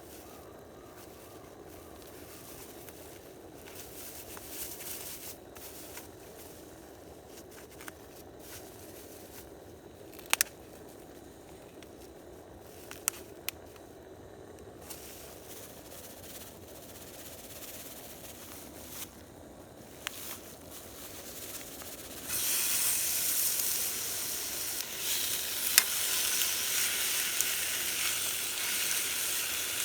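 Food frying in a hot pan over a campfire: a loud sizzle starts suddenly about two-thirds of the way in, as if ingredients have just gone into the hot oil, and carries on to the end. Before that there is only a faint low background with a few sharp clicks.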